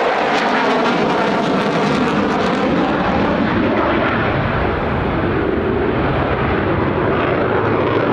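Mitsubishi F-2B jet fighter flying its display at low altitude. The jet noise is loud and steady, and its hiss thins out after about three seconds.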